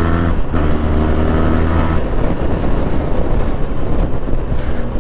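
Benelli TRK 502's parallel-twin engine pulling hard under acceleration, heard from the saddle; the engine note breaks off briefly about half a second in, then resumes. From about two seconds in a steady wind rush covers the engine.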